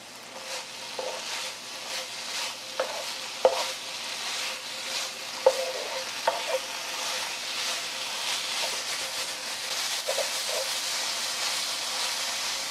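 Gochujang-coated dried squid strips sizzling in a frying pan over high heat, stirred with a wooden spatula that knocks and scrapes against the pan every second or so. This is the final high-heat stage, with the sauce cooking off.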